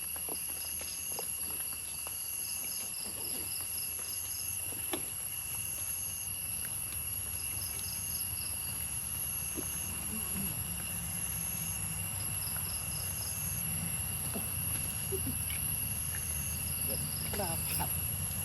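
Forest insects calling: a steady high-pitched whine with pulsed chirps repeating every second or so, over a low rumble that grows louder about halfway through.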